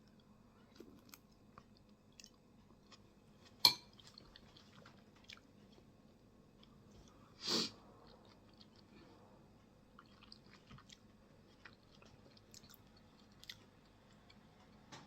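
Close-up eating sounds of a person eating kimchi jjigae with rice: soft chewing with many faint small clicks, one sharp click about four seconds in, and a short breathy noise about seven and a half seconds in.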